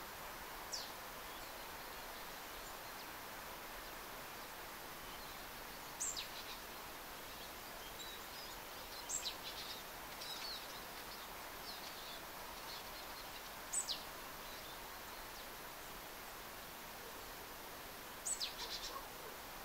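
A small songbird giving five short, thin, high calls, each dropping quickly in pitch, a few seconds apart, some followed by a few softer chirps, over a steady faint hiss of forest ambience.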